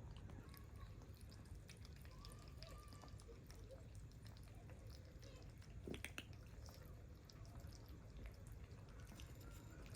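Near silence over a low hum, with faint small wet clicks of kittens eating and one sharper click about six seconds in.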